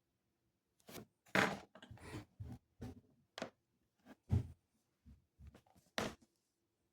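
A run of about a dozen knocks and clatters, like stationery and other small things being picked up and set down on a desk, starting about a second in and stopping near the end.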